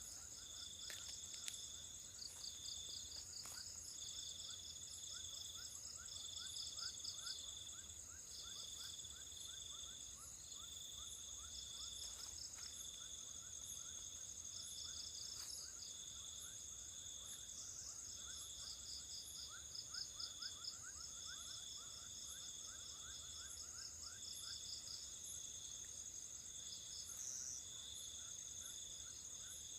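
Night insect chorus of crickets and other insects: a steady high trill, a second trill pulsing on and off about once a second, and lower chirping trains that come and go in the background.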